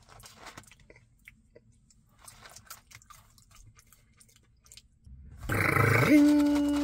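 Faint chewing of McDonald's french fries, soft wet mouth noises. About five seconds in, a loud rasping sound starts and turns into a steady held tone that lasts to the end.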